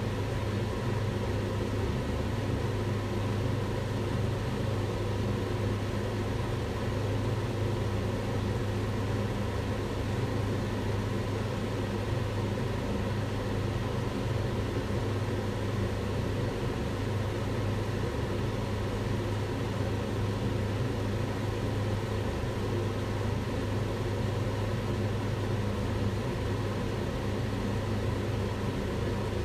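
Kitchen range hood fan running steadily, a constant low whooshing hum with no change.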